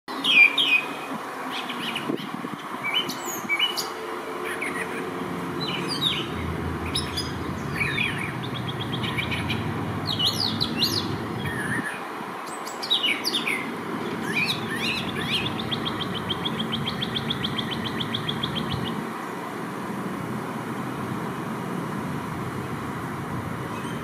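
Several songbirds singing and calling, with short quick chirps and whistles throughout and a rapid, evenly repeated trill of notes about two-thirds of the way through. A low rumble, like a distant engine, swells and fades underneath twice.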